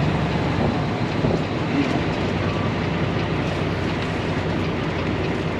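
Truck engine running with steady road noise while driving.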